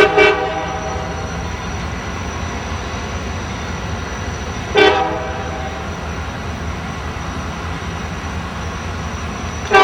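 Train horn sounding short toots about five seconds apart, over the steady rumble of a train running.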